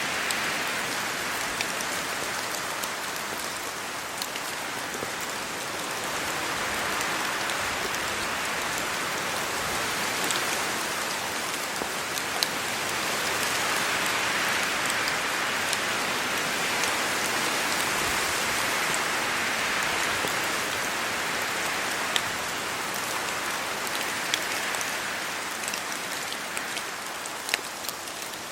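Steady rain falling on trees and leaves, swelling and easing every few seconds as gusts of wind move through, with scattered sharper drops ticking out of the hiss.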